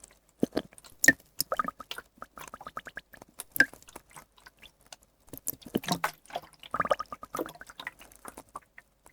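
Water worked with a dropper: an irregular run of small wet clicks, squelches and droplet plinks, thicker in two clusters.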